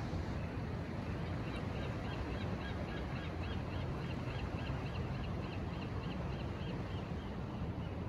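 A bird calling a rapid series of short, high, rising-and-falling notes, about two to three a second, over a steady low rumble.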